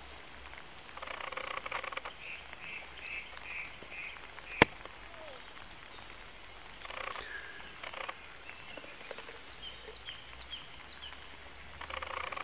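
Birds singing: a quick run of about six repeated chirps, and later a few fast down-slurred high notes, over soft rustling. A single sharp click about four and a half seconds in.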